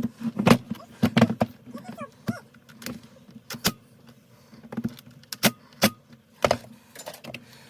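Irregular metallic clicks and clinks of hand tools and small chainsaw parts being handled and set down, about a dozen sharp knocks spread unevenly.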